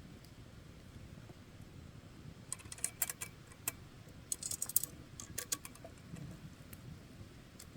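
Campfire crackling: a quick cluster of sharp pops and snaps from the burning wood in the middle of the stretch, over a low steady rumble.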